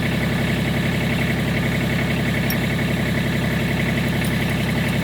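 Kubota tractor's diesel engine running at a steady speed, with an even, unchanging note.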